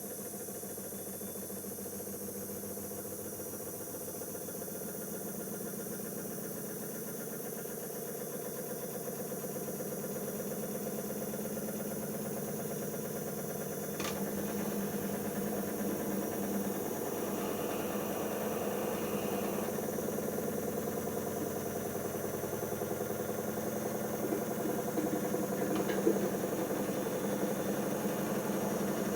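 Siemens iQ washing machine drum spinning after the first rinse, a steady motor hum that slowly grows louder as the spin goes on, with a sharp click about halfway through and another near the end.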